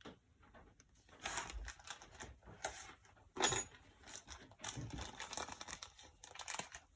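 Packaging crinkling and tearing as a new part is unwrapped, in irregular rustles, with one sharp click about three and a half seconds in.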